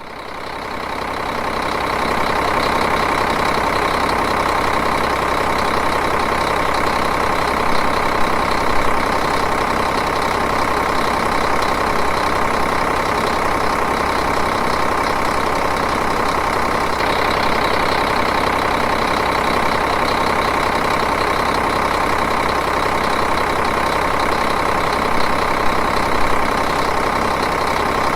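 Diesel engine idling steadily, fading in over the first two seconds and then running evenly.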